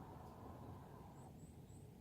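Near silence: a faint low rumble dying away, its upper part cutting off about a second in, with three faint short high chirps near the same moment.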